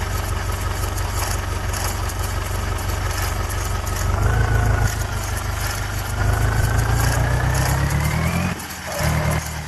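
Mahindra tractor's diesel engine running, picking up revs about four seconds in and again from about six seconds, with a whine that rises in pitch. It drops away briefly near the end, then picks up again.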